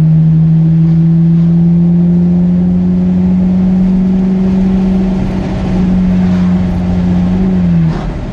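Ferrari F430's 4.3-litre V8 under way, heard from inside the cabin: a loud, steady engine note climbing slowly in pitch as the car gathers speed, then dropping sharply near the end.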